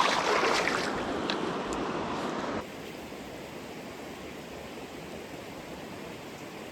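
Stream water running over rocks, a steady rushing hiss with a few faint ticks; it drops suddenly to a quieter, even rush about two and a half seconds in.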